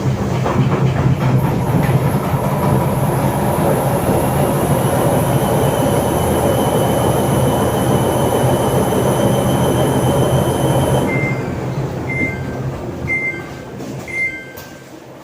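Washing machine running loudly with a steady rumbling hum and a high whine, which stops suddenly about eleven seconds in; the machine then beeps four times, about a second apart.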